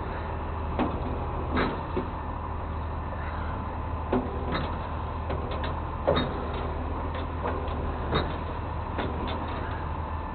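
Truck engine idling steadily, with several short metallic knocks and clanks spread through it.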